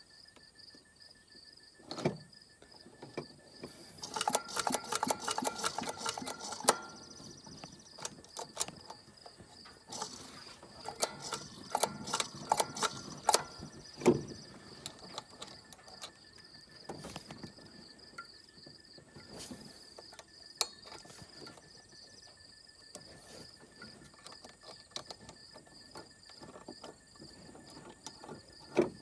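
Scattered clicks, knocks and rattles of hands and small parts being worked on a car, thickest about four to seven seconds in and again around eleven to fourteen seconds in, over a faint steady high-pitched tone.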